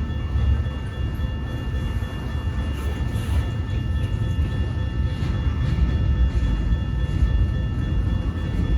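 Freight train rolling past at a railroad crossing: a continuous heavy low rumble of wheels on rail, with several thin, steady high tones above it.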